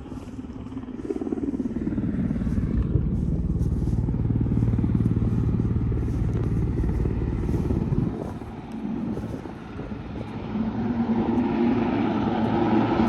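Diamond DA42 Twin Star twin-engine aircraft running, a steady low engine sound that dips about eight seconds in, then builds in level and pitch from about eleven seconds as power comes up.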